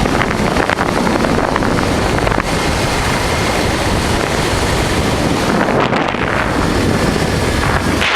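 Loud, steady wind rushing over the microphone of a moving motorcycle, with the Honda Transalp's V-twin engine running underneath.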